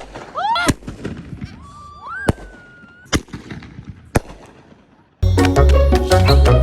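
Consumer fireworks going off: about five sharp bangs over four seconds, with high gliding tones between them. Music cuts in suddenly about five seconds in.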